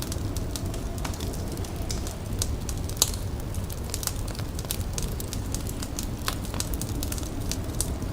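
A fire crackling, with frequent sharp pops over a steady low rumble; one louder pop about three seconds in.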